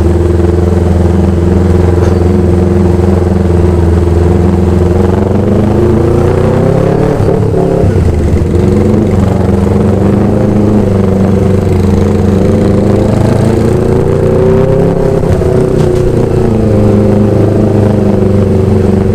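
Motorcycle with an aftermarket racing exhaust running at low, fairly steady revs. The engine speed dips and picks up again about midway through, and once more about three-quarters of the way in.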